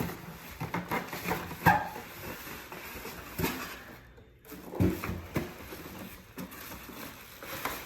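Packaging and machine parts being handled during unboxing: irregular rustling, clicks and knocks, with a sharp knock about one and a half seconds in and a duller thump near five seconds.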